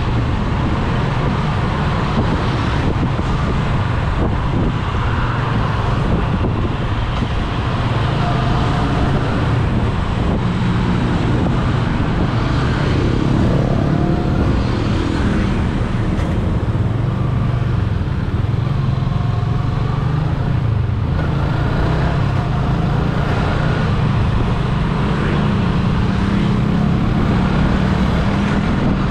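Steady road traffic noise: a continuous low rumble of engines and tyres.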